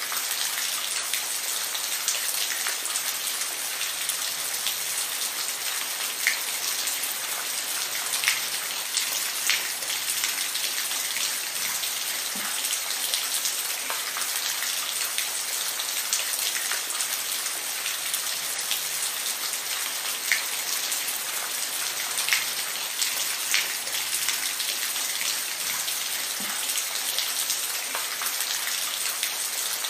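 Steady rainfall: a dense, even hiss of rain, with single louder drops ticking out every second or so.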